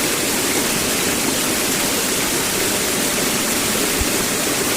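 Mountain stream water running steadily.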